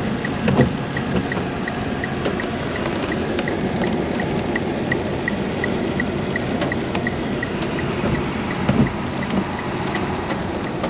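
Car interior noise: a steady low engine and road rumble, with a short high electronic tick repeating evenly about three times a second.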